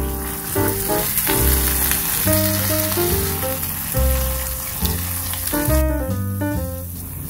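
Salami and shredded cheese sizzling in a hot non-stick frying pan as the cheese melts, a steady high frying hiss that dies down briefly near the end. Piano background music plays over it.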